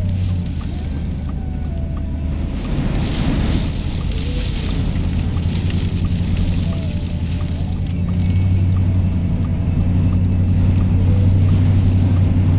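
Car driving, heard from inside the cabin: a steady low drone of engine and road noise, with a louder rush of noise about three seconds in.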